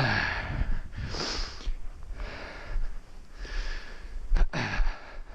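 A person breathing hard in and out, close to the microphone, roughly a breath a second, winded from wading through deep snow.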